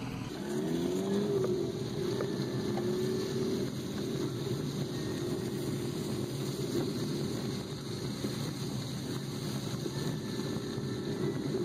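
Car engine heard from inside the cabin, rising in pitch about a second in as the car speeds up, then running steadily as it drives along a dirt road.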